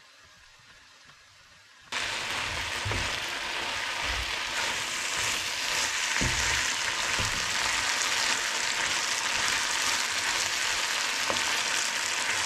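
Pre-cooked chicken kebab meat sizzling as it fries in a pan, stirred with a wooden spatula that gives a few low knocks against the pan. The sizzle starts suddenly about two seconds in.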